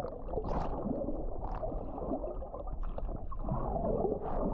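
Water sloshing and gurgling steadily as a person swims, sounding muffled.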